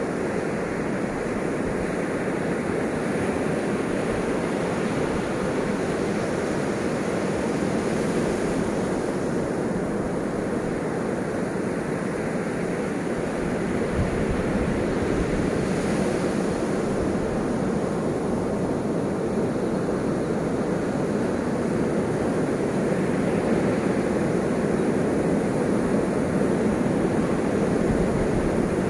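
Ocean surf: waves breaking and washing in as a continuous hiss, swelling slightly louder in the second half.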